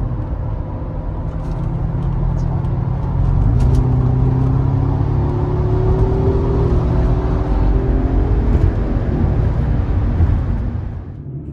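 Audi S4 Avant's 4.2-litre V8 accelerating, heard from inside the cabin: the engine gets louder about three seconds in and its note rises in pitch for several seconds, then eases off and dies away near the end.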